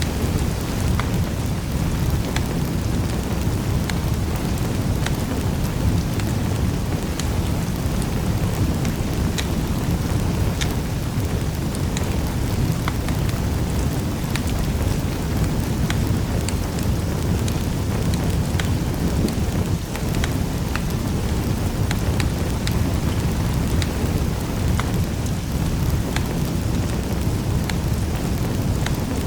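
Wood fire crackling in a fireplace: a steady low rumble of burning with many scattered sharp crackles and pops.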